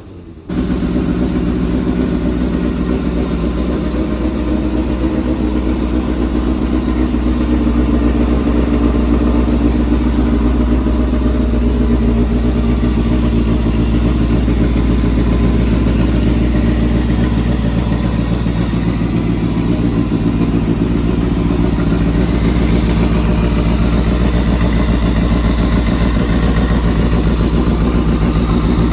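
Kawasaki Balius 250 cc inline-four motorcycle engine idling steadily.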